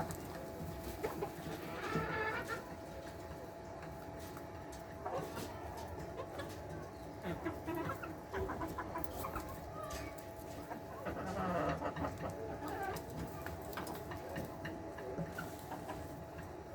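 Flock of layer hens clucking, with many short scattered calls and clicks over a steady hum.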